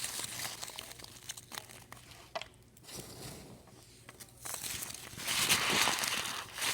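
Packing peanuts being handled and squeezed, crackling and crinkling in irregular bursts, loudest and densest a little after five seconds in.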